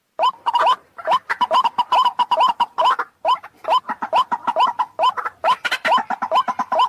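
White-breasted waterhen (ruak-ruak) calling: a fast run of short notes, each sliding upward, with several calls overlapping in a chorus.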